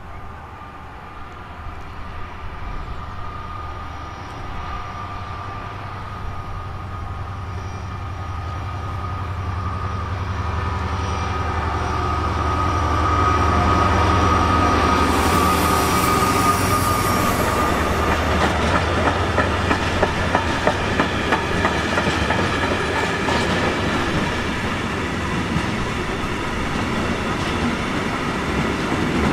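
A train approaches and passes close by. Its running noise, a steady low hum with a high tone above it, grows louder over the first dozen seconds or so. Then the wheels clatter rapidly over the rail joints as the cars roll past.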